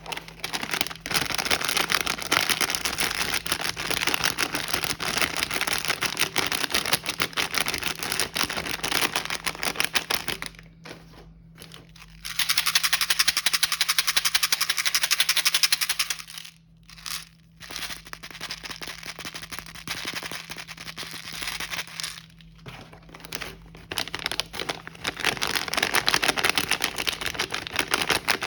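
Plastic snack wrappers being handled and crinkled, in long dense stretches with a few short pauses, over a faint steady hum.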